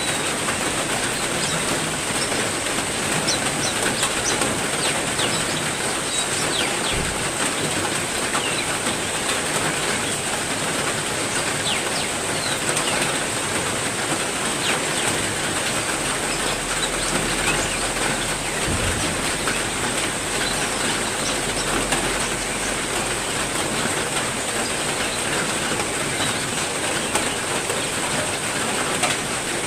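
Steady rain falling on an aviary, with scattered short bird chirps over it.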